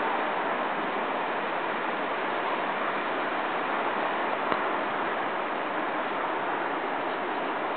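Steady rushing noise of a passing Class 40-hauled passenger train, the coaches rolling along the track on the climb. One small click comes about four and a half seconds in.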